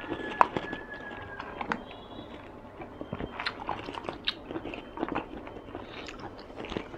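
Close-miked chewing: soft, irregular wet mouth clicks and smacks from a mouthful of fruit milk tea and its toppings being chewed.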